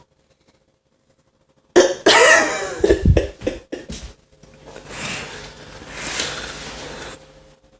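A person coughing: a sudden loud fit of coughs about two seconds in, then quieter, rasping coughs and breaths that die away near the end.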